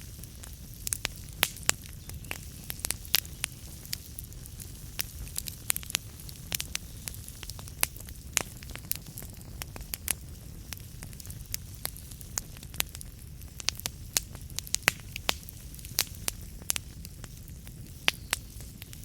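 Wood fire burning in a fireplace: logs crackling and popping in irregular sharp snaps, several a second, over a steady low rush of the flames.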